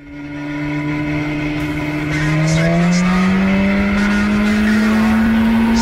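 BMW S1000RR's inline-four engine running under gentle, steady acceleration, its pitch rising slowly through the gears' pull. Heard onboard with a low wind rumble; the sound fades in at the very start.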